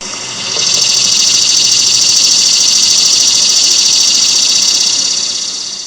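Thai cicada singing: a loud, continuous, high-pitched buzz with a fast pulsing texture, swelling in the first second and fading near the end.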